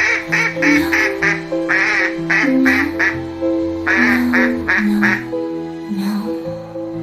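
Cartoon duckling quacking in quick short calls over background music; the quacks stop about five seconds in and the music plays on.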